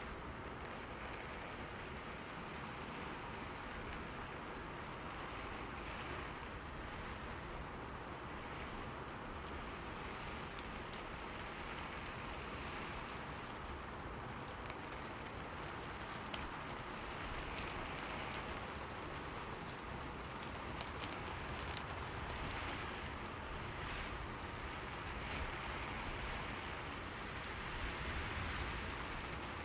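Steady rain falling on forest leaves, a constant hiss of many fine drop ticks that swells gently now and then.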